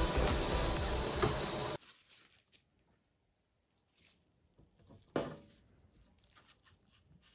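Loud hissing noise with scattered clicks that stops abruptly just under two seconds in. Near silence follows, broken by one short burst of noise about five seconds in.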